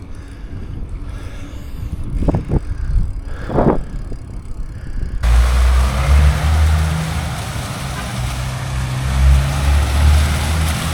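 Wind buffeting the camera microphone of a moving bicycle, a low rumble that suddenly becomes much louder and fuller about halfway through. A few short squeaks come before the rise.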